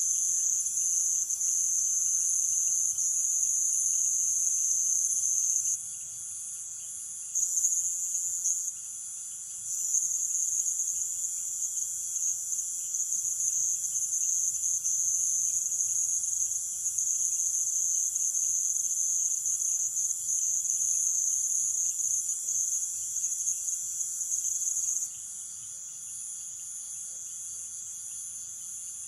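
Night chorus of Amazon rainforest insects: a loud, high-pitched continuous shrill that cuts out briefly twice, about six and nine seconds in, and again about four seconds before the end, over a fainter, steady, lower-pitched trill.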